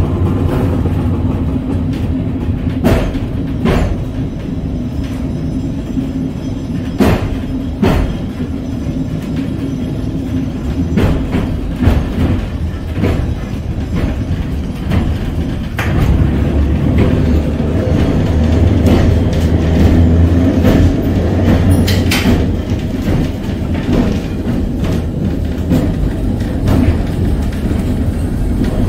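Vintage electric tram running on street rails: a steady low motor and wheel rumble with scattered sharp knocks and clicks from the wheels on the track, getting louder in the second half.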